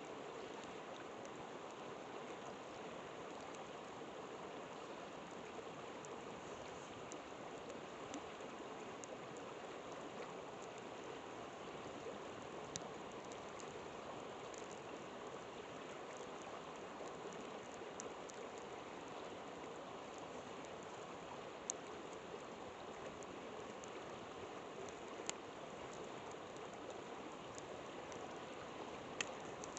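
A river flowing steadily, with a few sharp pops from a crackling campfire, the clearest about two-thirds of the way through and near the end.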